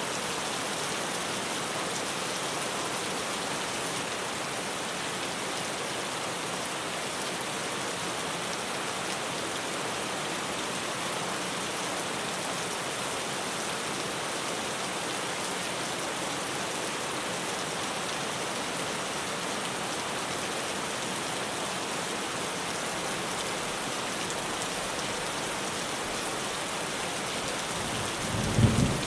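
Steady rain falling on a tin roof, with a short, loud burst of thunder about a second before the end.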